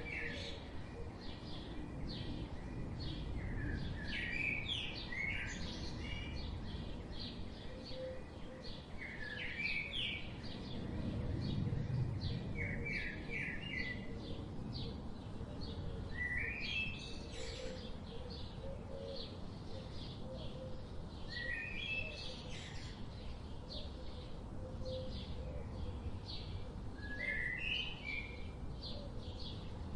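Several songbirds chirping: a steady run of short, high chirps, several a second, with quick groups of slightly lower notes every few seconds, over a low steady rumble.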